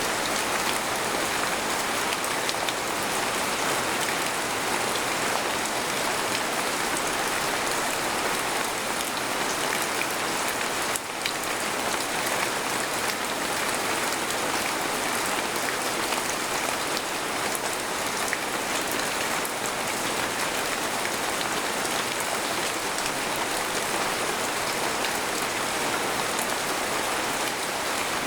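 Steady rain falling on a tent.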